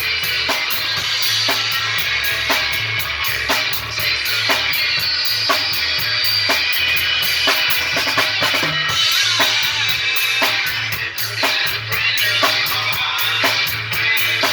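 Rock and roll music with a steady drum-kit beat of bass drum and snare.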